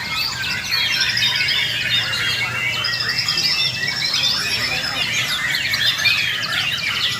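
Several white-rumped shamas singing at once: a dense, unbroken overlap of quick whistles, chatters and trills, the sound of a murai batu singing contest.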